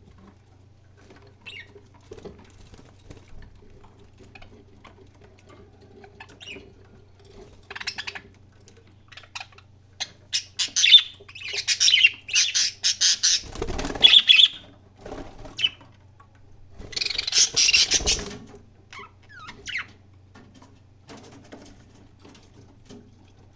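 Pet parrot calling: scattered short chirps, then a run of loud harsh squawks through the middle and another loud burst a few seconds later.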